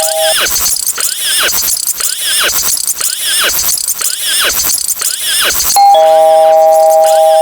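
Loud electronic sound effects. A held two-note tone cuts off just after the start, then a warbling, swooping effect repeats about every two-thirds of a second, and the held two-note tone returns near the end.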